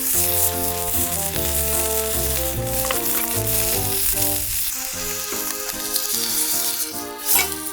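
Steak sizzling steadily in a frying pan over a wood fire, under background music with a clear stepping melody. A short sharp clack sounds near the end.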